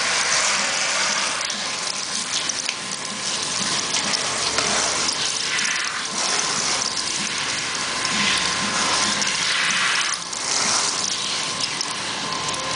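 Water running steadily from a tap or sprayer, rinsing hair.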